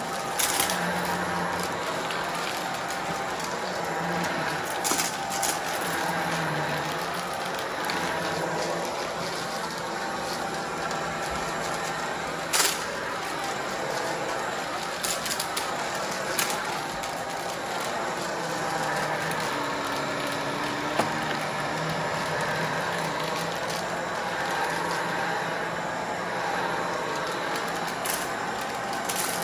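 Upright vacuum cleaner running steadily over rugs, with scattered sharp cracks and clicks as dry, crunchy mess-test debris is sucked up.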